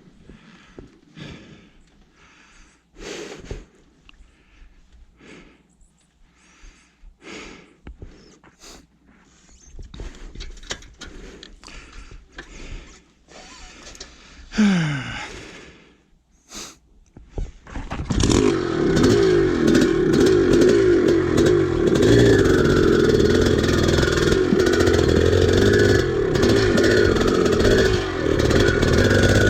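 Scattered light clicks and knocks, then about eighteen seconds in an old dirt bike's engine comes in loud and keeps running, its pitch wavering up and down as it is revved.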